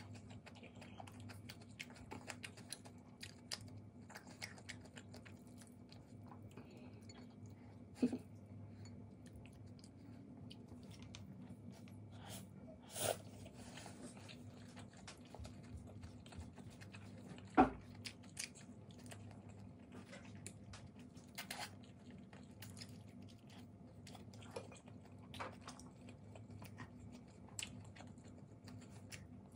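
Close-up eating sounds: a person chewing and biting food, with many small clicks and three sharper knocks, likely chopsticks against dishes. A low steady hum runs underneath.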